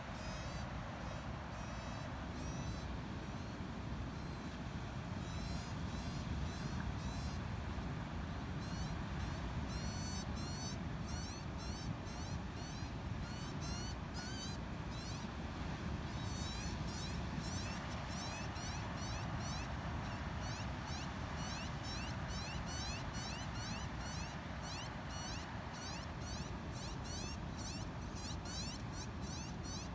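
Juvenile magpie begging for food: rapid, repeated high-pitched calls, several a second, coming thicker and faster from about ten seconds in, over steady background noise.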